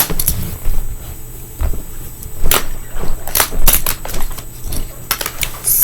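A small plastic fingerboard clacking on a hard surface: several sharp clicks and knocks as the board is popped, flipped and landed, some in quick clusters.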